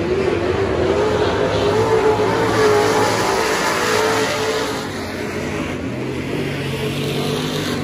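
Super stock dirt track race car engine running hard at speed, its pitch wavering and climbing a little. About five seconds in it drops to a lower, quieter note.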